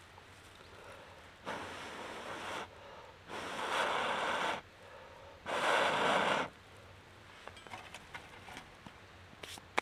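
Three long blows of breath, each about a second long, the last two louder than the first, followed by faint scattered ticks.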